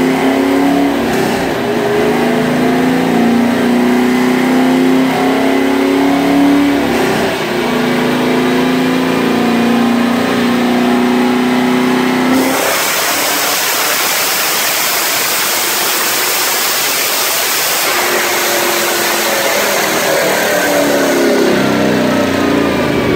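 Cammed LS3 V8 with long-tube headers and no catalytic converters, running on a chassis dyno. It holds a steady tone with two short breaks, then about halfway through becomes a much broader, rushing full-throttle sound. Near the end the revs and roller speed fall away.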